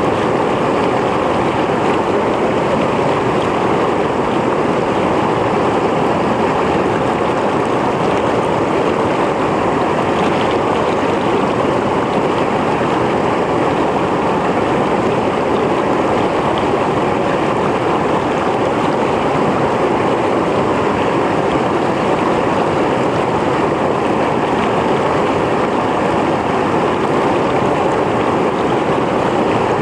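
Mountain stream flowing over rocks: a steady rushing and splashing of water, unchanging throughout.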